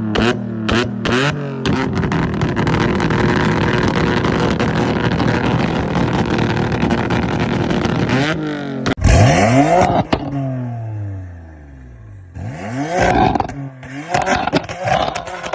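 Tuned sports-car engines revving hard: quick throttle blips, then a long hold on a two-step launch limiter with rapid popping and crackling. After a sudden change about nine seconds in, revs sweep sharply up and fall away, then more blips near the end.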